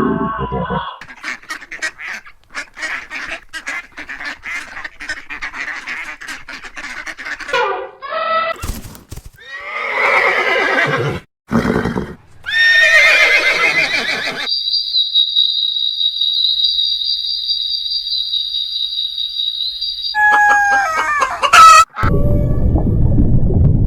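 A string of different animal calls cut one after another, among them pitched whinny-like calls and fowl calls. In the middle comes a steady high whistling tone lasting about six seconds.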